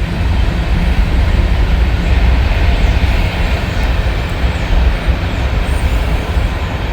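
Freight train of grain hopper cars rolling past, a loud, steady low rumble.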